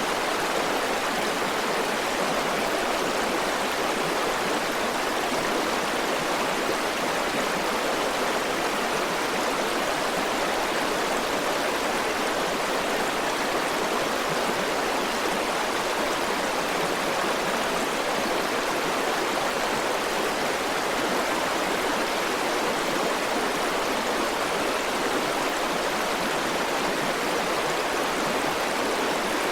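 River water flowing over rocks: a steady, even rush of running water with no change in level.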